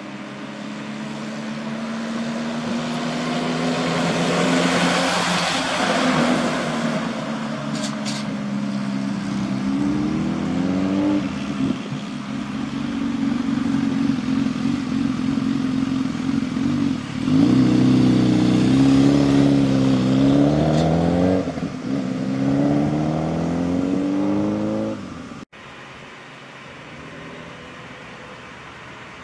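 Large truck's diesel engine running, its pitch climbing and dropping as it is revved repeatedly, loudest in the second half. A hissing rush swells and fades about five seconds in. The engine sound cuts off abruptly near the end, leaving a quieter steady hum.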